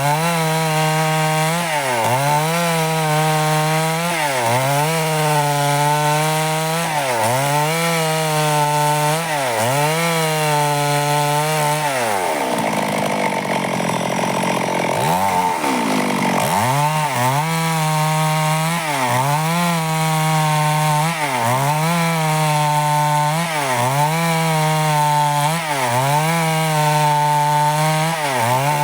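Stihl two-stroke chainsaw running at high revs while cutting timber into boards, its pitch dipping briefly about once a second as it is worked through the cut. About halfway through, the revs fall away sharply and climb back up over a few seconds.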